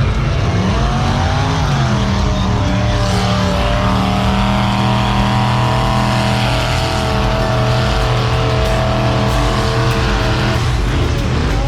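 Big truck engine revving up and held at high revs for several seconds, then dropping off near the end.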